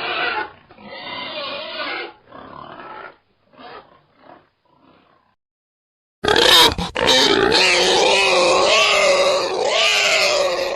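Animal calls in two recordings. Grunting calls fade out over the first five seconds, and after about a second of silence a louder run of wavering calls starts.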